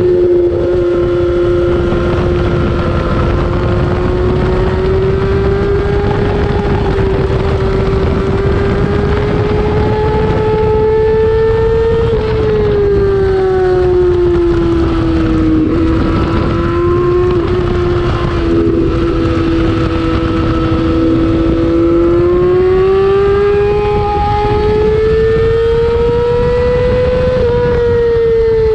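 2008 Yamaha R6's inline-four engine running hard at high revs over steady wind rush, its pitch sinking and climbing as the throttle is eased and opened again; it dips lowest about halfway through, then climbs until near the end.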